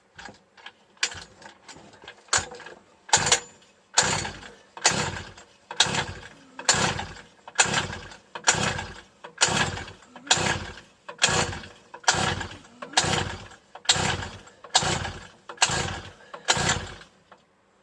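Pull-starter recoil of a 50cc two-stroke mini moto engine being yanked over and over, about once a second, some fifteen hard pulls after a few lighter ones. The engine never fires, not even a pop, because the spark plug is giving only a weak spark.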